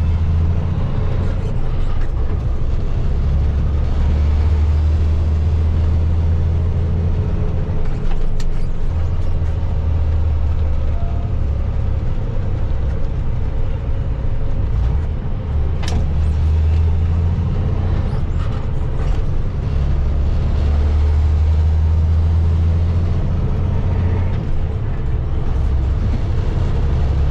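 Engine drone and road noise from inside a moving vehicle's cab, a deep steady hum that swells and eases every few seconds, with a few brief clicks.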